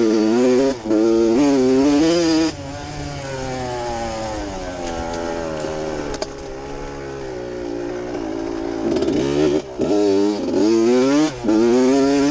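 Dirt bike engine revving hard under throttle, pitch wavering. About two and a half seconds in it drops to lower, steadier running, then revs up hard again near the end with several quick dips as the throttle is chopped or a gear is changed.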